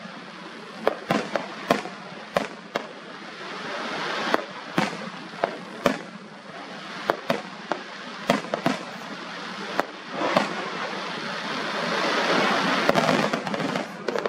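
Aerial firework shells bursting in a rapid, irregular run of sharp bangs over a continuous crackling, rushing noise that swells and is loudest near the end.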